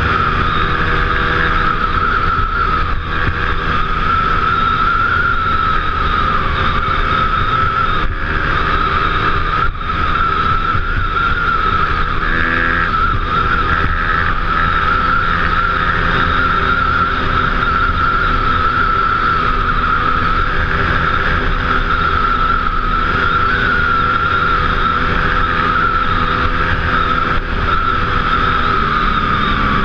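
Dirt bike engine running steadily while riding, its pitch holding fairly even with small rises and dips and falling away right at the end.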